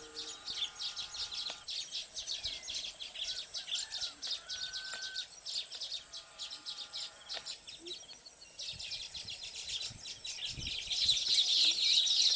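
A colony of baya weaver birds chattering at their nests: a dense, rapid stream of high chirps that grows louder near the end.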